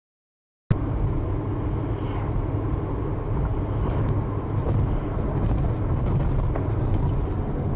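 Silence for under a second, then a cut into the steady low rumble of a moving car's engine and road noise, picked up by a dashcam.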